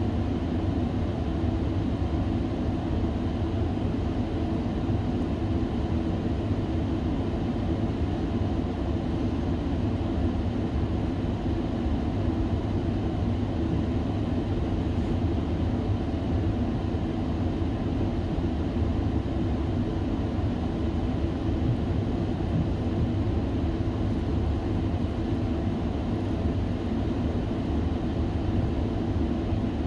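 Steady low rumble of a Metrolink passenger train running along the track, heard from on board.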